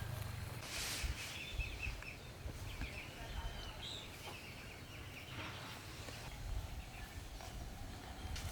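Birds calling in short, high calls, with a few rustling noises.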